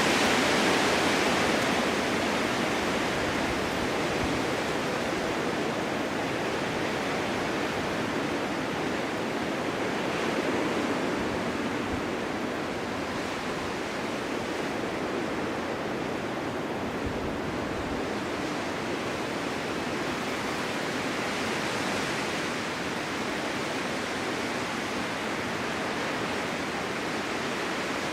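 Snowstorm wind blowing steadily, a dense, even rush with no gusting breaks, swelling slightly near the start and again about three quarters of the way through.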